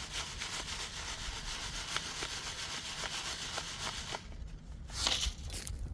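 Rapid repeated rubbing or scraping strokes. About five seconds in there is a short, louder rush of noise.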